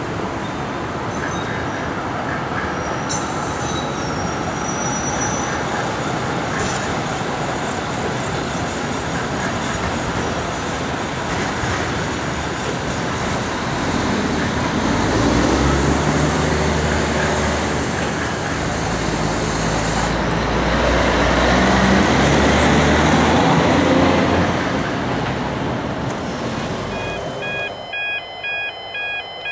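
Heritage passenger carriages of a steam excursion train rolling past, a steady noise of wheels on rails that swells into a louder low rumble for several seconds in the middle. Near the end the train noise fades and a pulsing electronic beeping starts.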